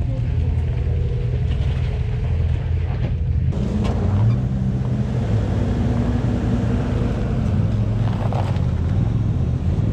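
Off-road vehicle engine running at low revs on a rocky trail, its note rising a little and getting stronger about three and a half seconds in.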